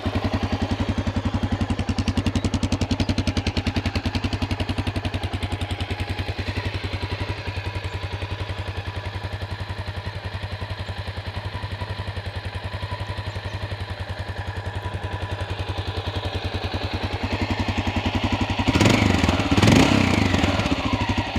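1988 Honda NX650's air-cooled single-cylinder engine idling steadily off choke after a cold start. Near the end it is revved briefly, about twice, and the pitch falls back to idle.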